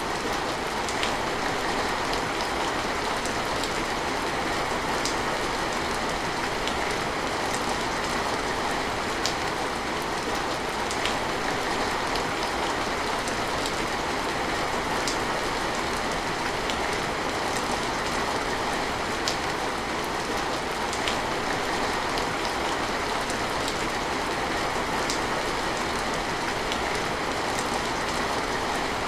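Steady rain falling, an even hiss with sharper individual drops or drips ticking now and then.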